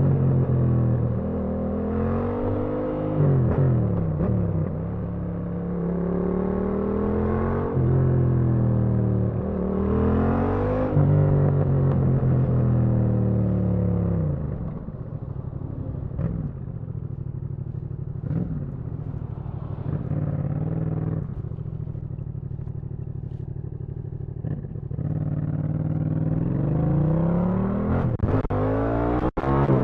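Yamaha MT-07's 270-degree parallel-twin engine riding through town, revving up and dropping back with several gear changes, then running at low revs through a quieter stretch in the middle before pulling up again near the end. A couple of sharp clicks come just before the end.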